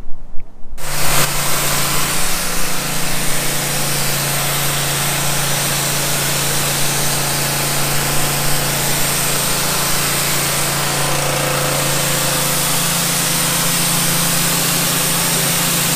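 Power washer running and spraying: a steady motor hum under a loud, even hiss of water spray, starting abruptly about a second in.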